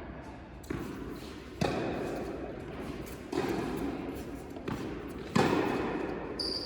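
Tennis rally: four sharp hits of the ball off rackets and the court, one to two seconds apart, each ringing on in a large indoor hall.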